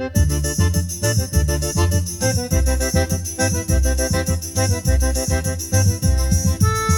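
Instrumental forró music: a reedy accordion plays a melody over a steady bass beat and percussion, moving to long held chords near the end.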